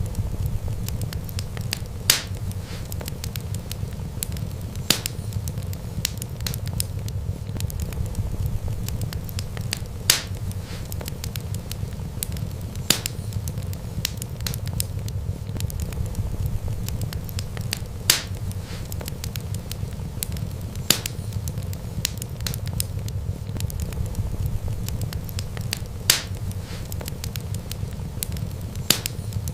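Wood fire burning: a steady low rumble of flames with a sharp crackling pop every few seconds.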